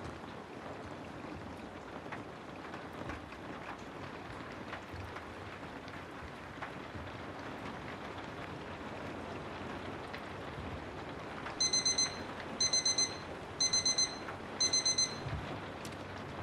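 Digital timer alarm beeping: four quick bursts of four high beeps, about a second apart, starting near the end, signalling the end of a pomodoro break. Under it, steady rain noise.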